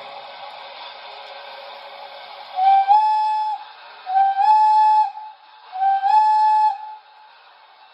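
Steam whistle from an O scale model locomotive's onboard sound system, played through its small speaker: three blasts of about a second each. Each blast starts slightly low and slides up to a steady tone.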